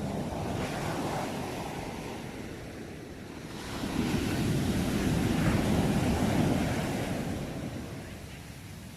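Sea waves breaking and washing up the shore: a smaller surge in the first couple of seconds, then a bigger, louder wave from about the middle that slowly fades away near the end.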